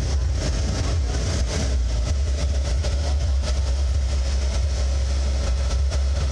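Car audio subwoofers playing deep bass: a loud, steady low rumble that holds throughout.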